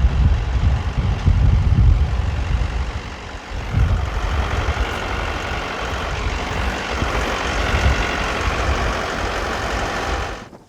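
Mahindra 4540 compact tractor's diesel engine running, with a heavy low rumble for the first few seconds, then a steadier, higher sound from about four seconds in; it cuts off suddenly near the end.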